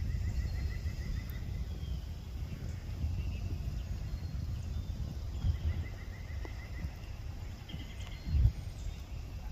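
Wind rumbling on the microphone, with a small songbird's quick trill of about eight notes once around the middle and a few faint chirps.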